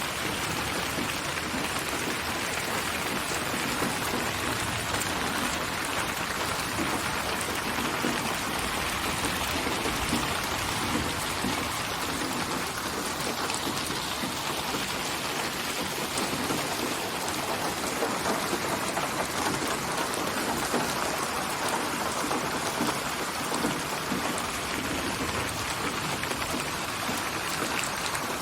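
Steady rain, an even hiss of drops falling without pause, played as a continuous white-noise sleep track.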